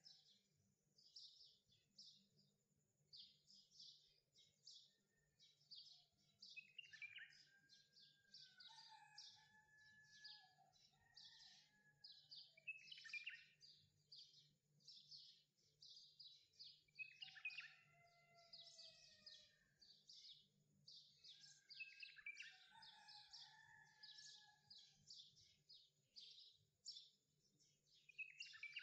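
Faint birdsong: a continuous run of quick high chirps, with whistled, pitch-gliding phrases coming back every few seconds, over a faint steady low hum.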